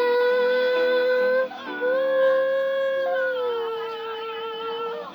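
A high voice singing two long held notes without words, the second one easing slightly lower partway through, over steady chords of accompaniment.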